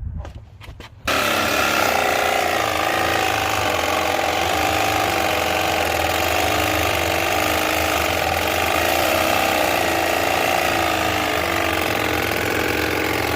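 Cordless reciprocating saw cutting through steel, starting about a second in after a few light knocks and running steadily under load with a wavering whine.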